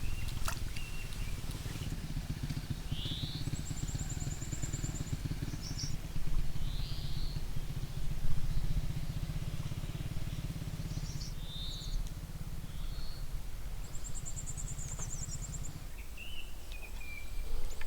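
A small engine running with a low, steady drone that stops about two seconds before the end. Over it, birds chirp and give two short high trills.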